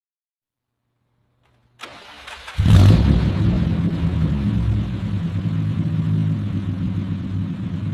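Proton Saga's four-cylinder petrol engine cranked briefly by the starter, catching with a loud burst about two and a half seconds in and settling into a steady idle.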